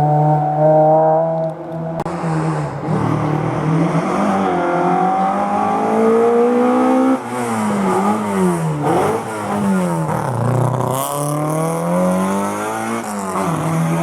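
Historic rally car engine driven hard through a hairpin, its pitch climbing and falling. There is a sudden drop about seven seconds in, then several quick up-and-down revs before it pulls away again.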